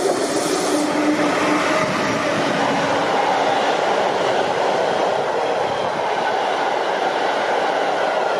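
A train passing at speed: a loud, steady rush of wheel and rail noise, with a brief low tone in the first two seconds.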